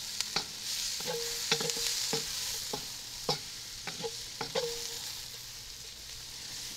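Diced sausage, onion and bell pepper sizzling in a hot carbon steel wok, stirred with a wooden spoon that scrapes and knocks against the pan every half second or so until about two-thirds through.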